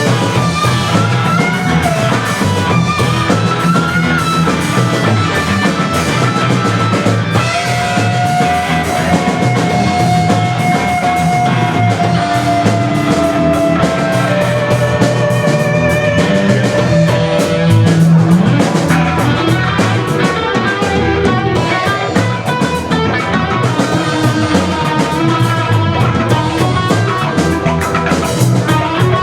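Rock band playing an instrumental passage: a lead guitar solo over bass and drum kit. About a quarter of the way in the guitar holds one long sustained note that slowly sinks in pitch.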